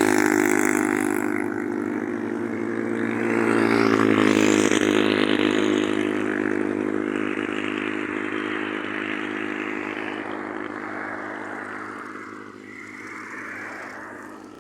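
Close thunder: a sudden loud crack that rolls into a long rumble, swelling again about four seconds in, then slowly fading away.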